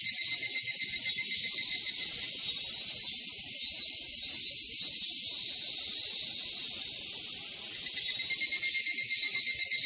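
Cicadas calling in a dense, high-pitched, shrill drone. It pulses rapidly at first, evens out into a steady buzz, and picks up the fast pulsing again near the end.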